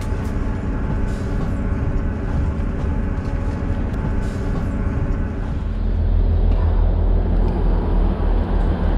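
A diesel passenger train running, a steady low rumble. About six seconds in the sound turns duller and deeper.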